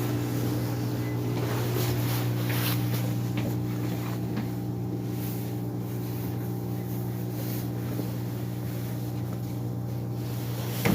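Subway train heard from inside the car: a steady low hum with a few faint clicks.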